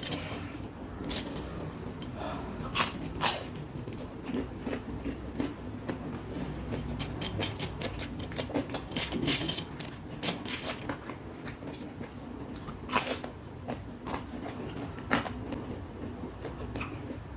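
Close-up eating sounds: crunchy fried snacks (chilli vegetable fritters and fried banana) being bitten and chewed, with irregular sharp crackles and mouth clicks.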